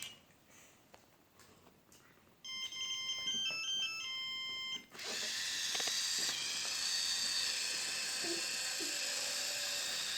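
A short electronic beeping tune, like a ringtone, plays for about two and a half seconds. A steady hissing sound effect follows and runs on.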